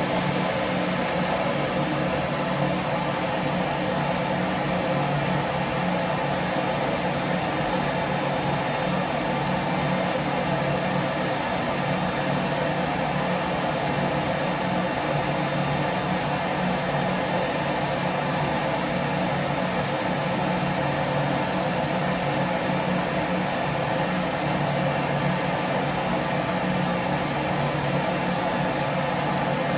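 Vacuum cleaner running steadily: a continuous motor hum under an even rushing noise, with no changes in speed or pitch.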